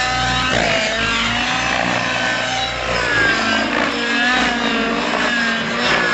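YS 91SR four-stroke glow engine on an RC aerobatic model plane running in flight, its pitch rising and falling repeatedly as the plane manoeuvres and passes.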